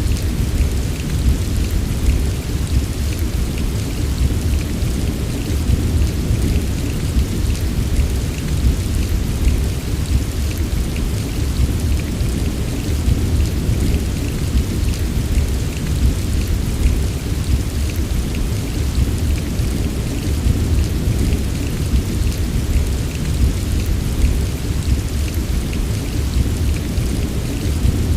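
Steady heavy rain with a deep, continuous low rumble underneath and many small drop impacts ticking throughout, never letting up.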